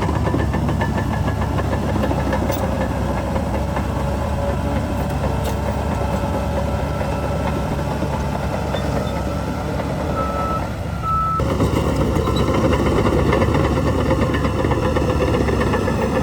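Heavy diesel engine of earthmoving machinery running steadily, with two short reversing-alarm beeps about ten seconds in. At about eleven seconds the sound suddenly gets louder and fuller.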